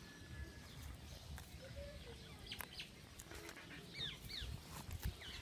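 Faint, short, high chirps of a small bird or chick, a few of them from about halfway on, with a pair about four seconds in. Low background noise runs under them.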